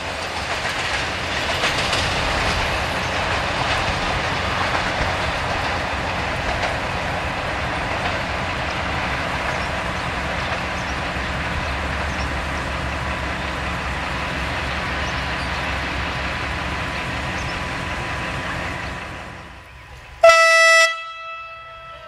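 Loco-hauled passenger train running past, a steady rolling noise of wheels and coaches that fades out near the end. Then comes one short, loud blast of a diesel locomotive's horn, under a second long, that rings on briefly after it.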